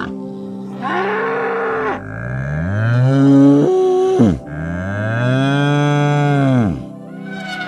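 Cow mooing: a short, higher call about a second in, then two long moos that rise and fall in pitch.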